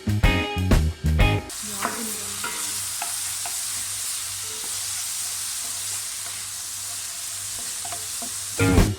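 Food frying in hot oil in a pan: a steady sizzle with a few light ticks. Guitar-and-drum music plays for the first second and a half and cuts back in just before the end.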